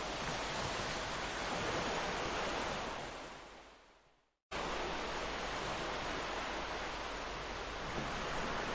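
Ocean surf washing steadily onto a beach. About three seconds in it fades out to a moment of silence, then cuts back in abruptly at full level.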